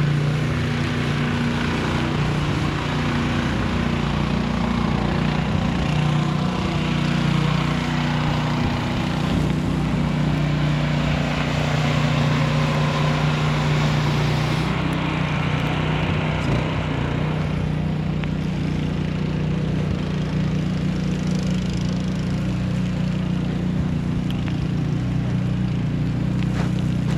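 An engine running steadily close by, with a rushing noise over it that thins out about halfway through.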